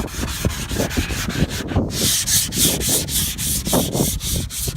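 180-grit sandpaper scratching over body filler on a car panel in rapid, even back-and-forth strokes, about six or seven a second, smoothing out the scratches left by 80 grit.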